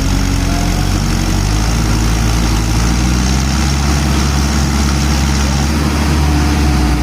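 Mahindra tractor's diesel engine running steadily, its note shifting slightly in pitch now and then.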